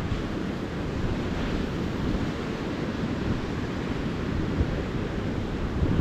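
Ocean surf washing steadily onto a beach, a continuous rumbling hiss, with wind buffeting the microphone.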